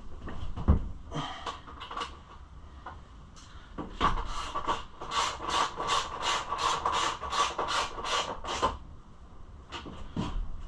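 Hand ratchet wrench worked back and forth to run in a bolt: a run of even rasping strokes, about three a second, starting about four seconds in and lasting about five seconds, after a single knock near the start.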